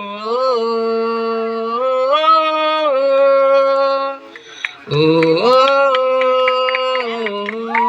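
Background song: a male voice sings long, drawn-out notes without words, sliding slowly up and down in pitch. It breaks off briefly about four seconds in, then picks up again.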